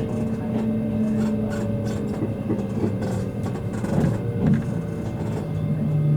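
Interior running noise of a JR East E653 series electric train car: the rumble of the running gear with steady traction-motor tones, one of them sliding slowly lower as the train slows, and a few knocks from the wheels or car body in the middle.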